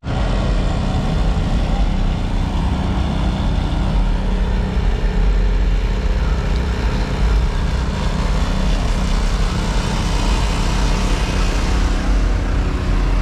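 A car engine running steadily and loudly, with a strong low rumble.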